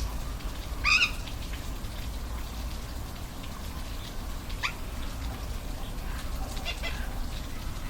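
Steady low rushing of a waterfall, with three short animal calls over it: a loud one about a second in, a thinner one near the middle and another near the end.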